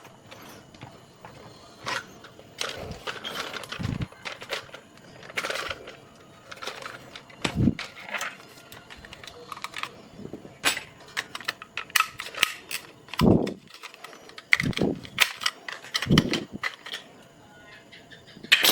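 Irregular clicks and taps, with a few dull thumps spread through, from a plastic dragon toy being handled and worked on in repair.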